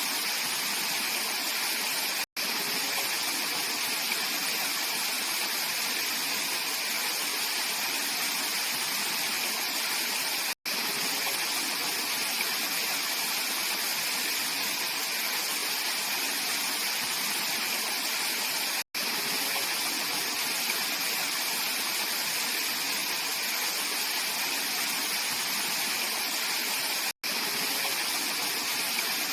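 Mountain valley stream flowing, a steady rushing of water. The sound cuts out for an instant about every eight seconds.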